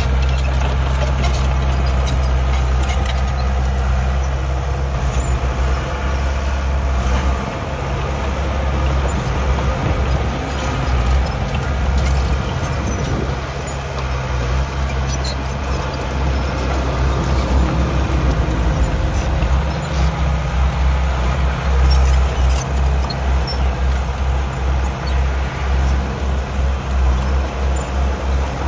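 Diesel engine of heavy earthmoving machinery running under load, its low drone swelling and easing, with scattered metallic clanks and rattles.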